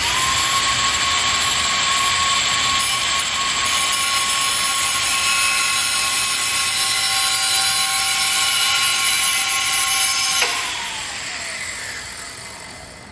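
Electric grinder with a cut-off wheel running at full speed, a steady high whine with a hiss, as it cuts through rusted-in steel springs. About ten seconds in it is switched off and winds down in a falling whine.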